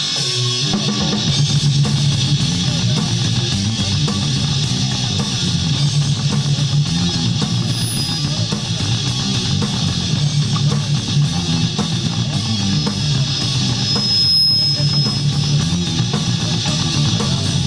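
Rock band playing: electric guitar over a drum kit with a steady, even beat.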